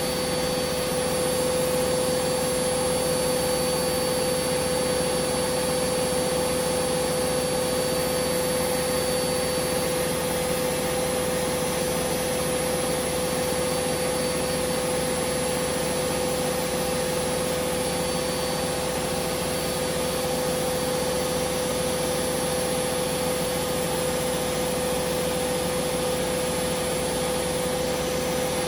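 Hoover Vision Dynamic washing machine spinning at high speed: a steady whine from the motor and drum with a constant rushing noise.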